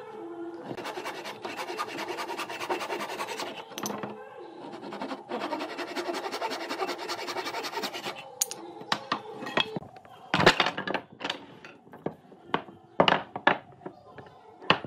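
Hand work on wood: two stretches of fast scraping and rubbing over the surface, like sanding or rasping, then a series of sharp wooden knocks in the second half.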